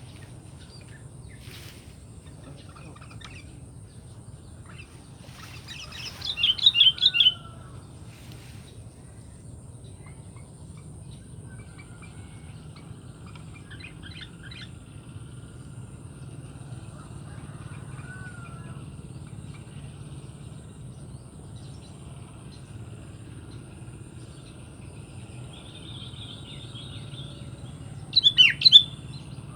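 Sooty-headed bulbul calling: two short bursts of quick, bubbly chirping notes, about six seconds in and again near the end, with fainter bird calls in between over a steady low background rumble.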